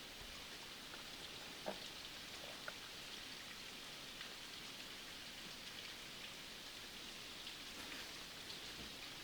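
Faint, steady rain, a hiss of falling rain dotted with small drop ticks, with two sharper ticks about two and three seconds in.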